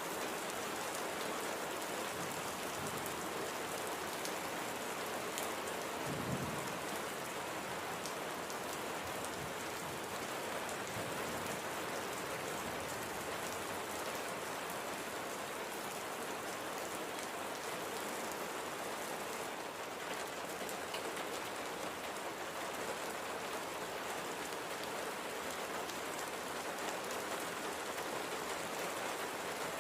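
Steady light rain falling, with the fine ticking of individual drops, and one brief low thump about six seconds in.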